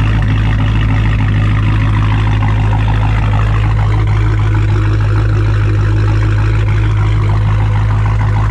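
Dodge Challenger Hellcat's supercharged 6.2 L Hemi V8 idling steadily a couple of minutes after a cold start. Its exhaust runs with the mufflers and mid pipes deleted.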